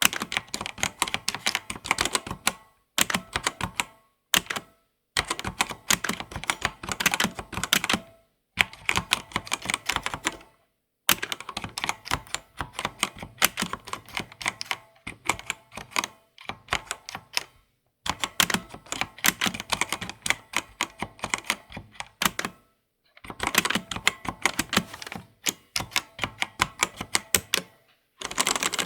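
Typing on a computer keyboard: runs of rapid key clicks broken by short pauses every few seconds.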